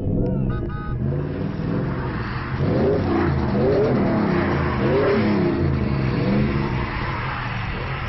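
Vehicle engines revving under load, rising and falling in pitch about four times in the middle, over a steady engine drone and a hiss: vehicles straining to tow a bus that is stuck in snow.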